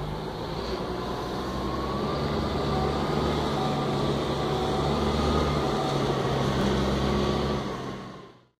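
Diesel truck engine idling nearby, a steady low hum that cuts off near the end.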